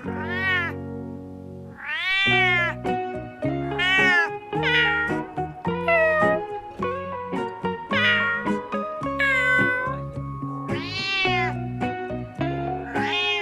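Cat meowing over and over, about eight drawn-out meows that each rise and then fall in pitch, over background music.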